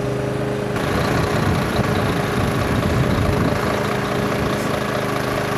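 Heavy vehicle engine running steadily, with an even hum at first. About a second in it changes abruptly to a louder, rougher engine rumble.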